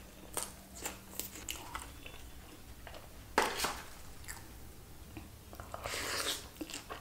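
Close-miked mouth sounds of a person chewing and biting food: scattered soft wet clicks and crunches, with one louder bite about three and a half seconds in.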